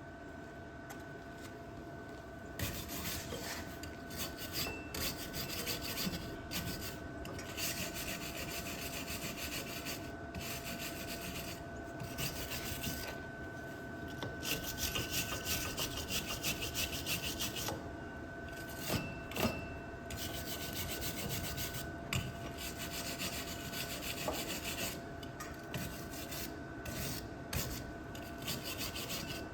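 Wire brush scrubbing a fresh steel weld in repeated spells of rapid rasping strokes with short pauses between, cleaning off slag and scale.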